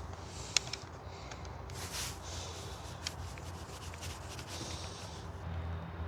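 Handling of a camera on a tripod: soft rubbing and scraping, with a sharp click about half a second in and a smaller click about three seconds in.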